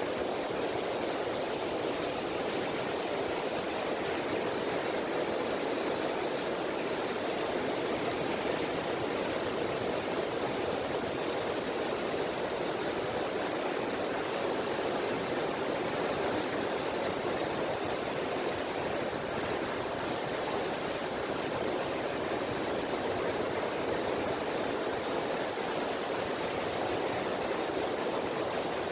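Gentle ripples of the Seto Inland Sea washing on a beach: a steady, even wash of water with no distinct breaking waves.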